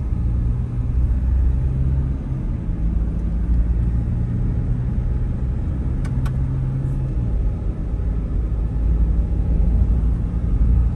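Car driving along a highway: a steady low engine hum and road rumble, the engine note shifting a couple of times, with two short clicks about six seconds in.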